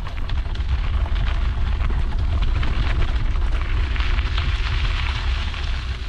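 Wind buffeting an action camera's microphone during a mountain bike ride, a heavy low rumble, over the crunching rattle of the bike's tyres on a gravel trail. The crunching grows louder around the middle and eases near the end.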